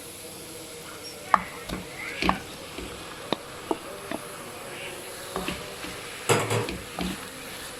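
Minced meat and grated onion frying in butter in a pot with a faint sizzle, while a spoon stirs and breaks up the meat with scattered clicks and scrapes against the pot. A louder clatter comes about six seconds in.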